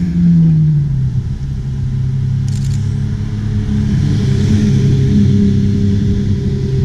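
Sports car engine running close by: its note drops as the revs fall away in the first second, then it settles into a steady, rumbling idle that lifts slightly partway through.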